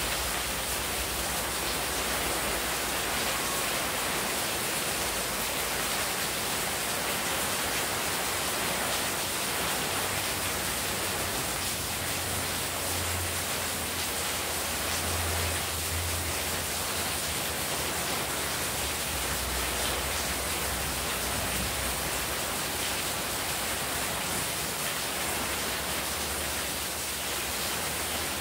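Heavy rain falling steadily, with water streaming off a roof edge onto a paved courtyard, making an even, unbroken hiss.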